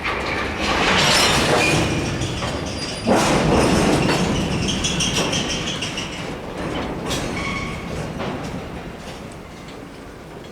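CSX freight train cars rolling past, wheels clattering over rail joints, with thin high wheel-squeal tones in the middle. The sound jumps louder about three seconds in and eases off toward the end.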